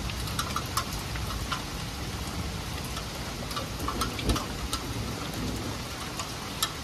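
Heavy rain falling steadily on trees and a wooden deck, an even hiss with many sharp drop taps close by.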